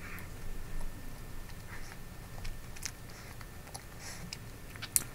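Chewing a soft lemon pound cake: quiet, moist mouth clicks and smacks, with one sharper click near the end.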